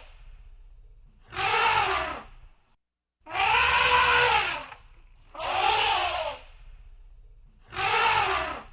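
Elephant trumpeting: four loud calls of about a second each, every one rising and then falling in pitch, with a low rumble in the gaps between them.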